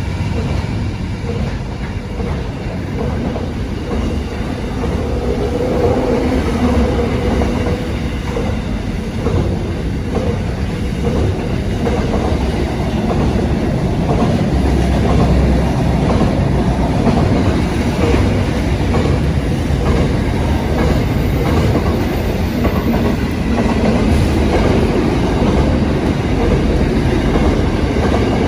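Train running along the track: a steady rumble with the clickety-clack of wheels over the rails.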